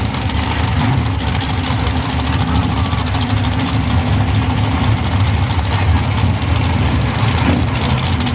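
Sand drag truck engines idling steadily and loudly, holding an even pitch with no revving.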